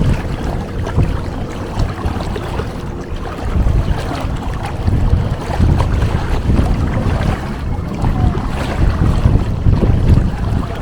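Gusty wind buffeting the microphone over rushing water and waves.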